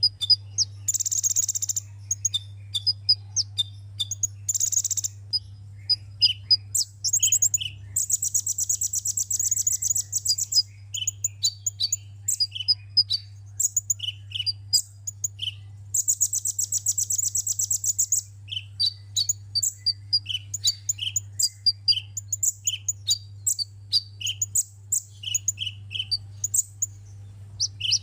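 Sunbird singing: a rapid run of high, sharp chirps broken by several dry, buzzing trills of one to two seconds each, over a steady low hum.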